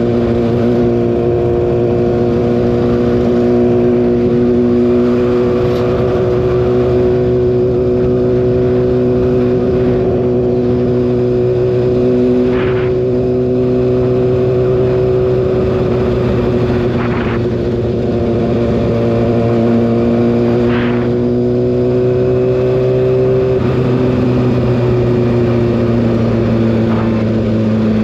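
Kawasaki ZX-6R's inline-four engine running steadily at cruising speed, its note rising slowly, then dropping briefly about three-quarters of the way through as the throttle changes.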